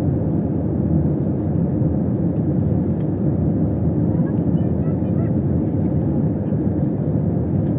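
Jet airliner's engines running steadily: a dense, even low rumble.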